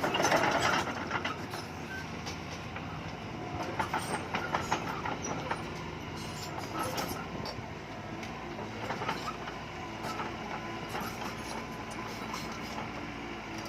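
Bulldozer engine running steadily under heavy machinery clatter, with frequent metallic clanks and rattles; the loudest burst of noise comes right at the start.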